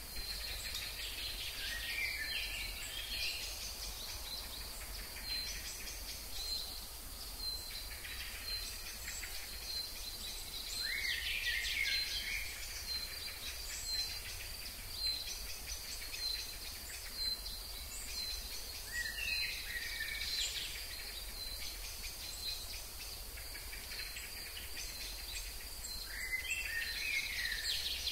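A wild songbird singing a short, rapid phrase four times, about every eight seconds, over a steady high-pitched insect-like chirring.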